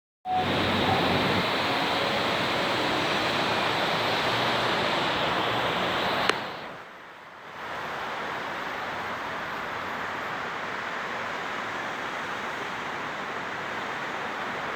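Steady rushing noise with no distinct events. About six seconds in, a sharp click is followed by a sudden drop, and the noise then carries on somewhat quieter.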